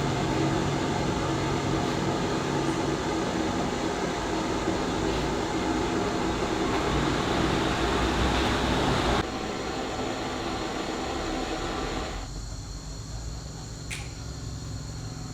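Steady machine noise, a motor-driven whir. It drops suddenly about nine seconds in and again about twelve seconds in, and a brief click comes near the end.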